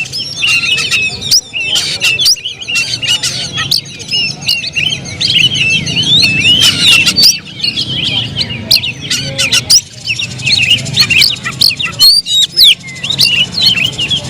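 Oriental magpie-robin (kacer) singing a fast, unbroken run of varied chirps, whistles and sharp upswept notes.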